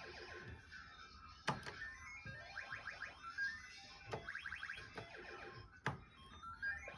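Mahjong gaming machine playing its electronic game music: repeated quick runs of rising electronic notes. Sharp clicks sound about a second and a half in, at about four seconds and again near six seconds.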